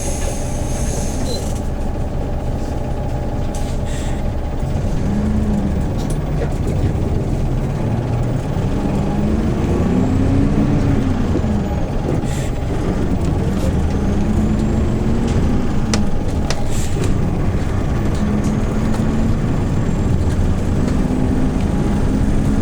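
Hyundai New Super Aero City CNG city bus engine heard from inside the cabin, running steadily with its pitch rising and falling several times as the bus speeds up and eases off. A few sharp clicks and rattles sound along the way.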